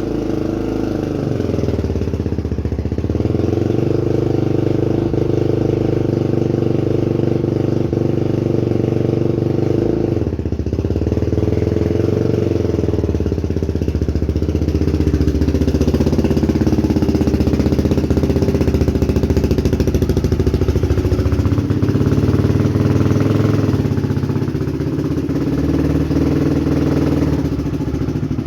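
Quad (ATV) engine running at low revs, its pitch rising and falling a few times as it is manoeuvred off a trailer.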